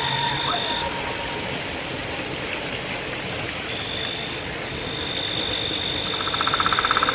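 Monsoon night ambience: a steady high-pitched insect trill over a constant hiss, with a rapid pulsing call, frog or insect, coming in about six seconds in.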